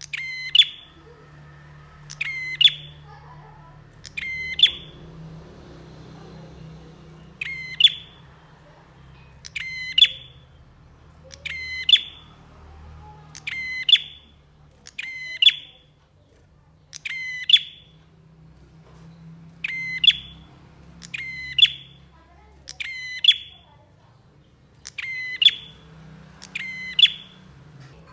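Prinia (prenjak) giving short, sharp chirping calls over and over, about one every one and a half to two seconds, over a faint low hum.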